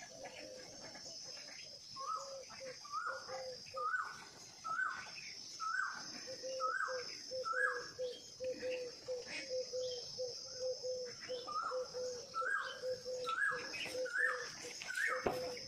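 Bird calling: a series of short rising chirps about every half second, with a lower note pulsing quickly underneath, over a steady high insect drone. There is a sharp knock near the end.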